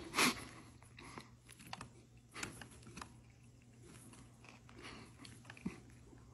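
A person biting into and chewing a burrito at close range, with scattered soft clicks and crackles from its foil wrapper.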